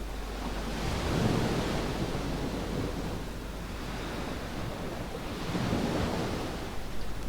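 Small waves washing up on a sandy beach, two swells of surf about four seconds apart.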